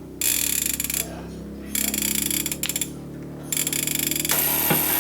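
The clock alarm of a Dwight D CB base station going off: three harsh buzzing pulses, each under a second, about a second and a half apart, over the set's steady low hum. It shows the repaired clock's alarm function works.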